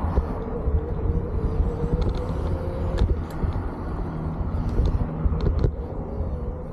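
Riding noise from an electric folding bike on the move: wind rumbling on the microphone with small clicks and rattles from the bike over the path, and a steady, slightly wavering whine.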